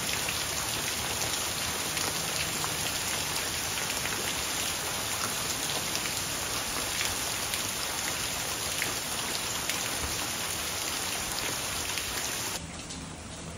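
Steady rain falling, with many individual drops ticking on surfaces. About a second before the end it abruptly becomes quieter and softer.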